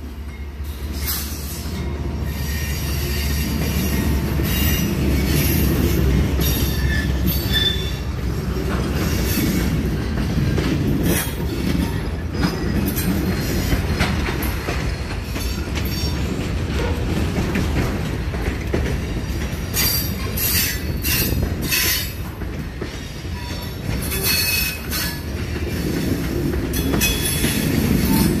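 Freight train cars (covered hoppers) rolling past: wheels squealing in thin, high tones that come and go, with the clicks of wheels over rail joints over a steady low rumble.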